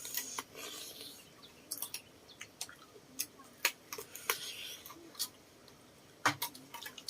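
Close-up eating sounds of grilled duck: wet chewing and mouth noises with irregular sharp clicks.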